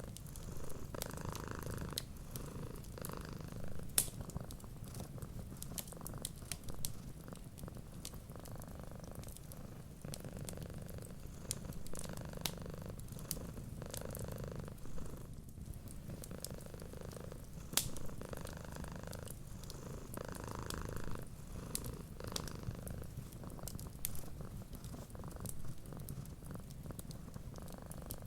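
A cat purring steadily, its purr swelling and fading with each breath. Sparse sharp crackles of a wood fire sound over it.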